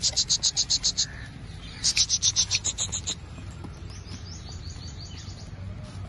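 Small birds chirping in quick runs of about ten short, high chirps a second: two loud runs in the first three seconds, then fainter chirping, over a low steady background hum.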